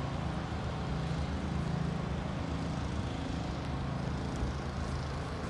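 Strong wind buffeting the microphone in a low, uneven rumble, over the steady hum of street traffic.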